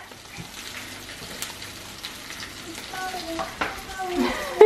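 Food frying in pans on a hob: a steady sizzle, with a utensil stirring in a pan. A voice is heard briefly near the end.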